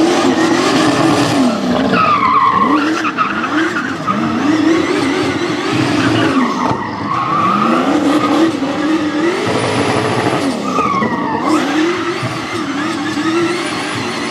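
Car being drifted with its tyres squealing. The engine's revs rise and fall over and over as the throttle is worked.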